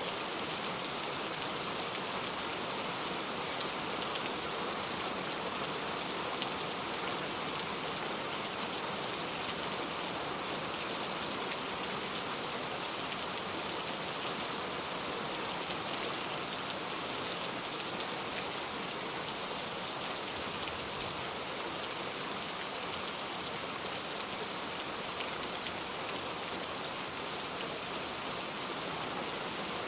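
Steady rain falling, a dense even hiss of raindrops pattering on surfaces.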